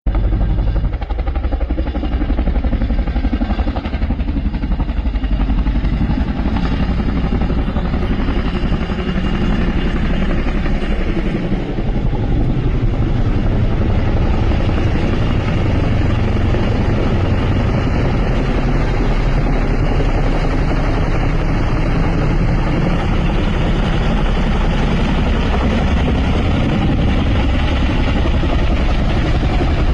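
HAL Chetak helicopter running, a loud, steady noise of rotor and engine.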